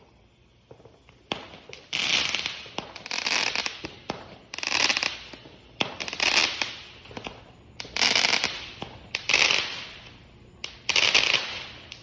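Fireworks going off in quick succession: about seven times, each a sharp pop followed by a crackling hiss lasting about a second, starting a little over a second in.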